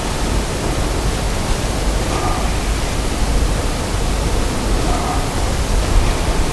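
Steady, loud static-like hiss with no speech, and faint brief tones about two seconds in and again near five seconds.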